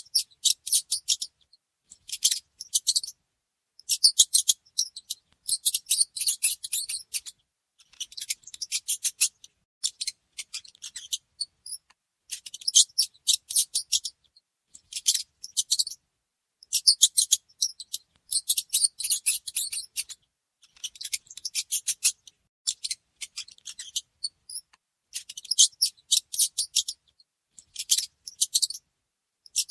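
Mice squeaking: rapid, high-pitched chattering squeaks in repeated bursts of one to two seconds, with silence between the bursts.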